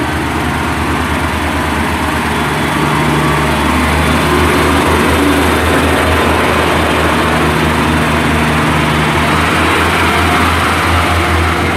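Class 142 Pacer diesel multiple unit pulling away, its underfloor diesel engines running under power. The engine sound grows louder about three seconds in and then holds steady.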